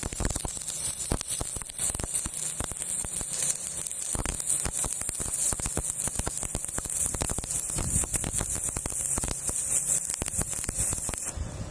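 Stick (shielded metal arc) welding arc crackling and spitting steadily as an electrode burns. It cuts off abruptly near the end when the arc is broken.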